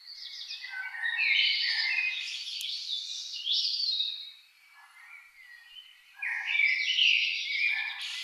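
Songbirds chirping and warbling in quick, busy phrases, in two loud bouts with a quieter lull of a second or two in the middle.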